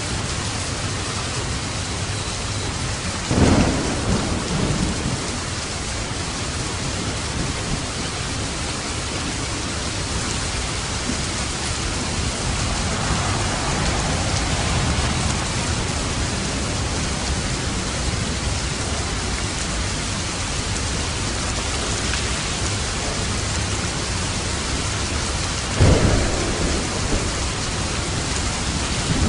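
Steady rainfall with thunder, two loud rumbles breaking through: one about three seconds in and one near the end, each dying away over a second or two.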